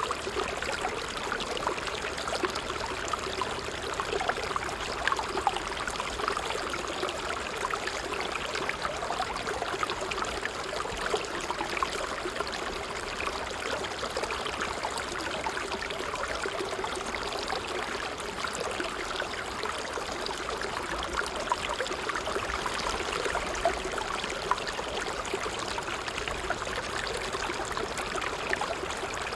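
Water trickling steadily, a dense unbroken run of many tiny splashes.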